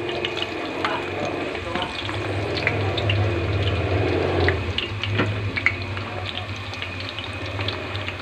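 Peanuts deep-frying in a pot of hot oil: a steady bubbling sizzle full of small crackles, with a wooden spatula stirring them near the end.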